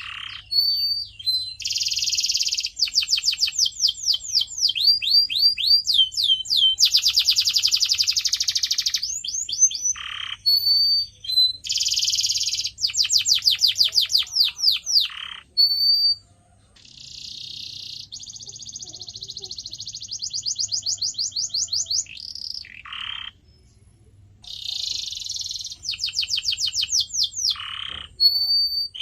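Canary singing a long, loud song made of rapid trills of repeated sweeping notes, buzzy rolls and short whistles, with brief pauses about halfway through and again later.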